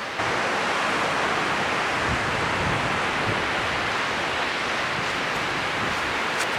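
Strong wind blowing steadily, a rushing noise with low, uneven buffeting on the microphone.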